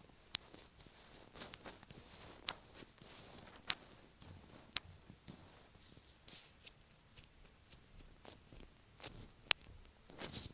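Latex-gloved fingertips tapping and rubbing right on an earphone microphone: soft sticky rubbing, broken by a handful of sharp taps at irregular intervals.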